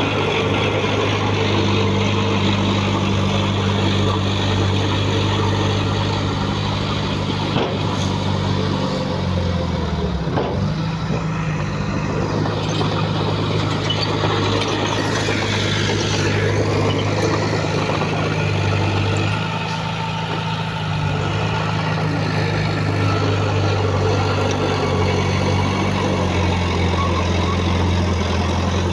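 Heavy earthmoving machinery engine running steadily, with its pitch dipping and recovering briefly about a third of the way in and a slightly quieter patch about two-thirds through.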